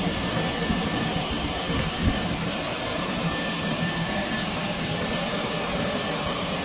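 Vacuum running steadily during dryer-vent cleaning, a constant rushing noise with a low hum beneath it. One brief knock about two seconds in.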